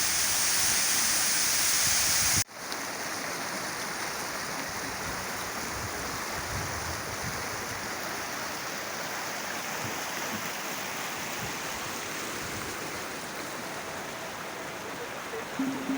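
Waterfall, swollen with winter rain, rushing and splashing at close range. About two and a half seconds in, the sound cuts abruptly to a somewhat quieter, steady rush of falling water.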